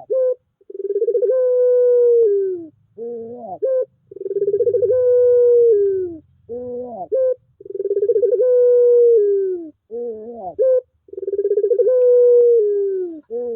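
Puter pelung (a long-cooing Barbary dove breed) cooing over and over: a few short rising notes, then a long drawn-out coo that falls away at the end, about every three and a half seconds. It is a lure call meant to set silent doves calling.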